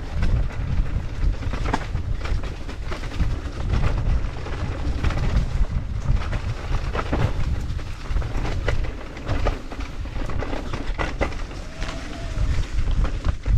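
Mountain bike riding over a rough forest trail: steady wind rumble on the microphone, with frequent rattles and knocks from the bike jolting over the ground.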